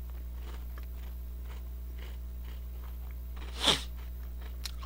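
Biting off and chewing a Pepero, a thin chocolate-coated biscuit stick, with faint crunches over a steady low electrical hum. One short, louder sound comes about three and a half seconds in.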